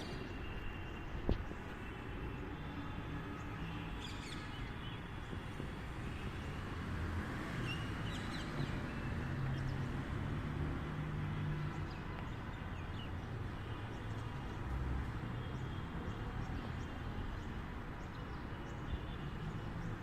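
Steady urban background hum and traffic rumble with a few short, faint bird calls, plus a single sharp knock about a second in.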